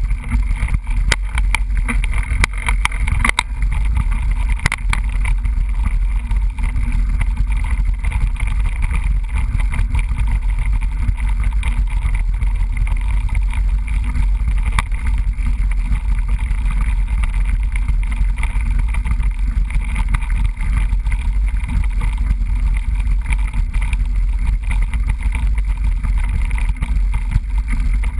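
Mountain bike riding a trail, heard through a GoPro camera's microphone: a steady rumble of wind and rolling noise, with scattered knocks and rattles from bumps, most frequent in the first few seconds.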